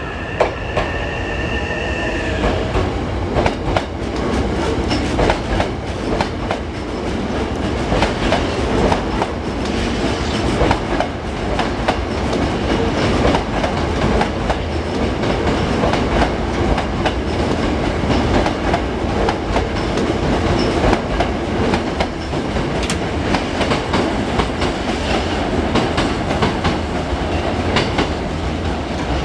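Hankyu electric commuter train running through the station, a steady rumble with the wheels clacking over the rail joints throughout. Two high steady tones sound in the first two and a half seconds, then stop.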